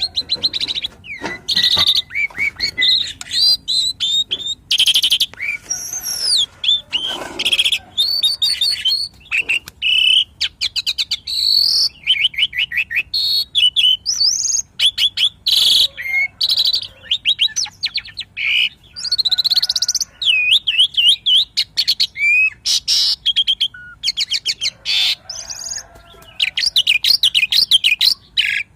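Asian pied starling singing a long, varied song of whistled slurs and fast rattling chatter, with almost no pause.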